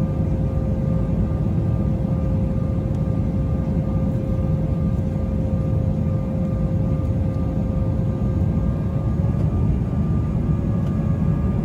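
Airliner in flight, steady engine and airflow rumble from inside the cabin, with a steady whining tone over it.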